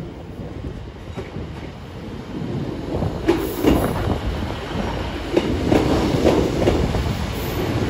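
A Class 150 Sprinter diesel multiple unit rolling slowly into the platform. Its wheels click over rail joints and squeal a little, and it gets louder about three seconds in as the train comes closer.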